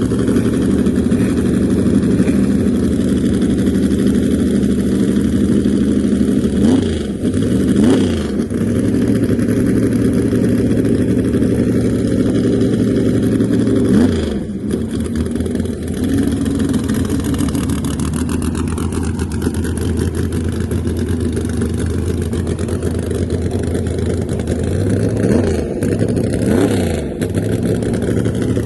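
Drag car engines idling loudly and steadily, with a few quick throttle blips that rise and fall in pitch: two close together about a quarter of the way in, one about halfway, and a couple near the end.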